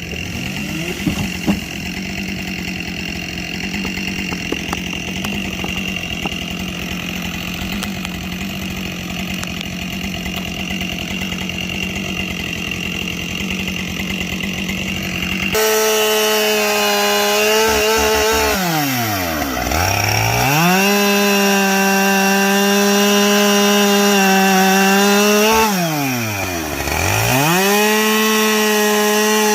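Two-stroke chainsaw running at high revs while bucking logs. About halfway through it gets suddenly louder and clearer, and twice its revs dip sharply and climb straight back.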